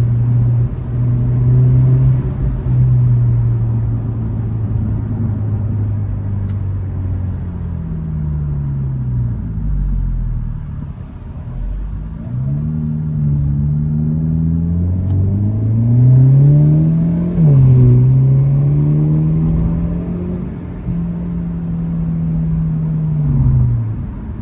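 Hyundai Elantra N's turbocharged four-cylinder engine heard while driving: the engine note sinks slowly as the car slows, then climbs under acceleration about halfway through, drops sharply once as if on an upshift, climbs again and holds, and eases off near the end.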